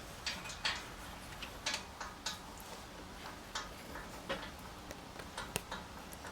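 Irregular light clicks and taps of hand tools on the engine's exhaust header bolts, a dozen or so spread unevenly over several seconds.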